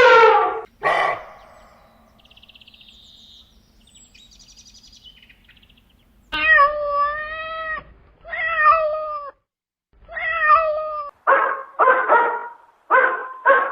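Domestic cat meowing, three drawn-out meows about a second apart, followed by a quick run of short, sharp calls near the end. A long loud call is just ending at the very start.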